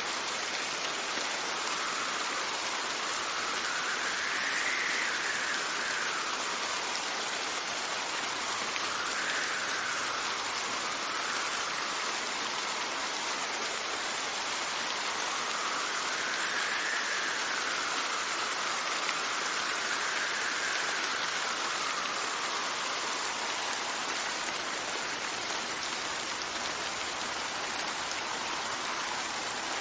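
Steady rain falling, with gusts of wind swelling and fading in pitch several times.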